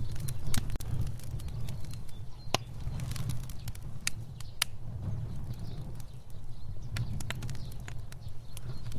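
Fire burning with a steady low rumble and irregular crackles and pops, with a few louder snaps scattered through.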